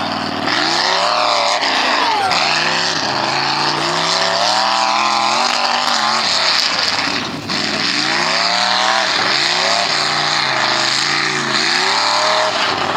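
Truck engine revving up and down over and over, with a short drop in revs about seven seconds in.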